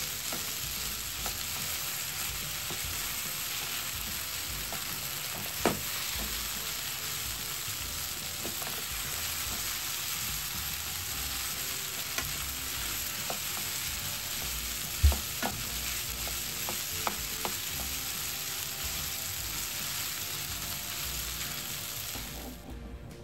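Chicken rice, made of rice, chicken and diced vegetables, sizzling steadily in a nonstick frying pan over medium heat while a wooden spatula stirs and breaks it up. There are a few sharp knocks, and the sizzling cuts off suddenly near the end.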